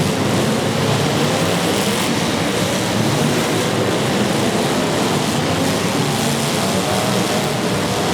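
Several demolition derby cars' engines running and revving together in a loud, steady din, their pitches wavering up and down.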